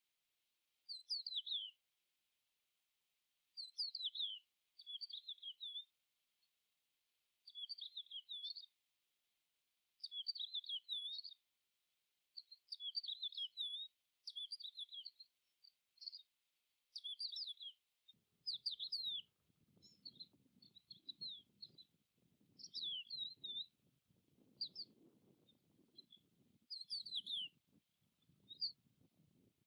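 A small songbird chirping in short phrases of quick up-and-down notes, repeated every second or two. About two-thirds of the way through, a faint low rumble starts underneath the chirps.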